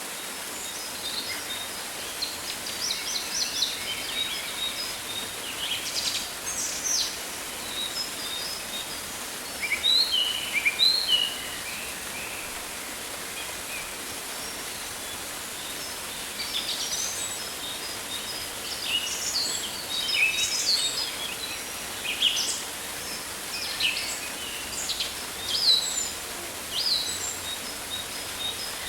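Rainforest ambience: a steady hiss of background noise under many birds chirping and whistling short calls, in clusters, with a few quick falling notes.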